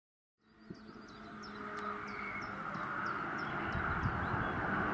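2021 Porsche Cayenne Coupe GTS's 4.0-litre twin-turbo V8 approaching along the track, coming in about half a second in and growing steadily louder. Birds chirp over it.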